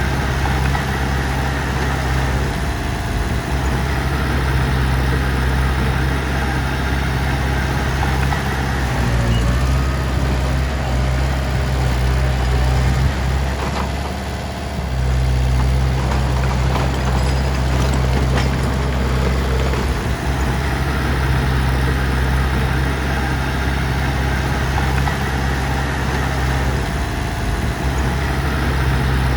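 Heavy diesel engine running steadily at low revs, easing off briefly about halfway through and then picking back up.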